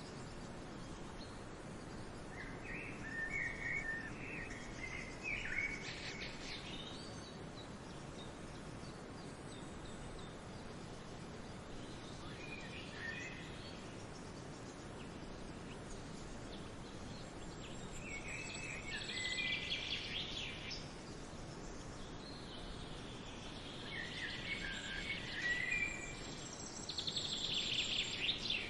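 Small birds chirping in short scattered bursts over a steady outdoor background hiss.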